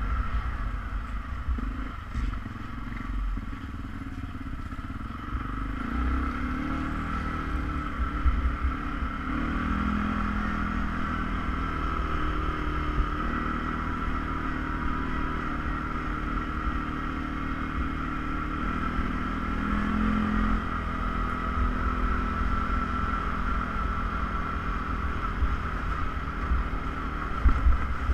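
ATV engine running while riding, its note stepping up and down several times, over a steady high whine and a low rumble.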